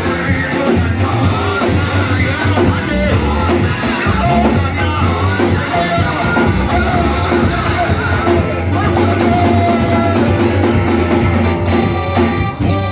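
Live church worship music from a band with guitar, bass and drum kit, and voices singing.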